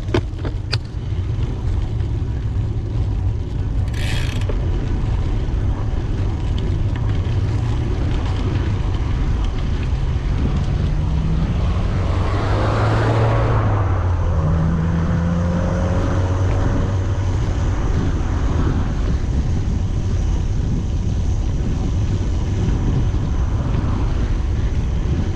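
Steady low rumble of wind buffeting the microphone while riding, with a motor vehicle passing about halfway through, its engine note rising and falling.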